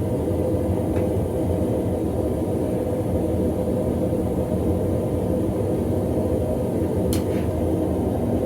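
Gas forge burner running steadily, with a light click about a second in and another near the end.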